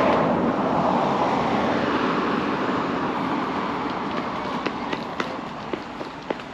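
A passing road vehicle's noise fading steadily as it moves away, with crisp footsteps on pavement about twice a second coming through in the second half.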